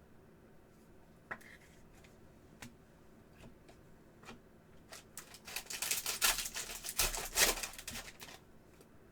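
Panini Prizm football trading cards and their foil pack being handled: scattered light clicks, then a burst of crinkling and rustling from about five and a half to eight seconds in.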